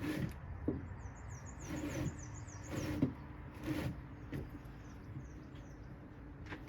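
Footsteps through the garden, about one step a second for the first four seconds. A bird sings a quick run of high chirps about a second in.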